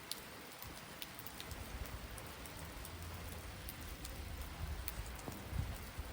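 Steady rain falling, with scattered sharp ticks of individual drops and a low rumble that comes and goes.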